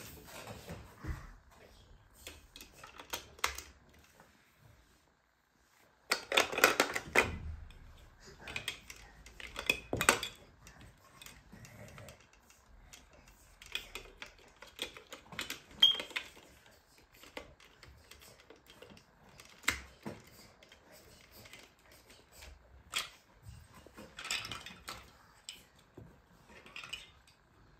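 Irregular clicking and clattering of small hard objects being handled, single sharp clicks spread throughout, with denser rattling bursts about six seconds in and again near the end, and a short near-silent gap before the first burst.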